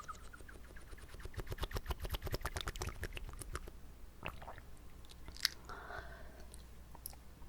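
Water swished around in the mouth right at the microphone, making wet clicks and pops: a fast run of clicks for about two seconds, then scattered pops with one sharp click about five and a half seconds in.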